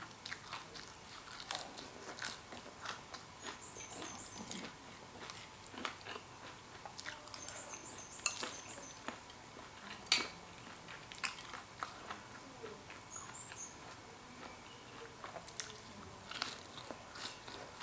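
Close-miked chewing and lip-smacking of someone eating spicy horseshoe crab egg salad: many short wet clicks and smacks, one sharper and louder about ten seconds in.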